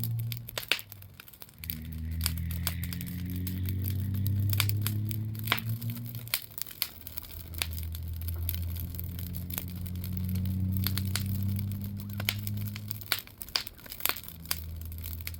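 Campfire of tree cuttings crackling and popping with irregular sharp snaps, over a steady low humming drone.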